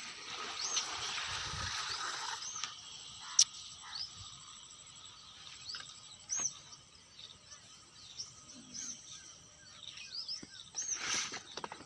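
Small birds chirping again and again with short, high, arching calls over a steady hiss that is strongest in the first three seconds. A single sharp click comes a little over three seconds in.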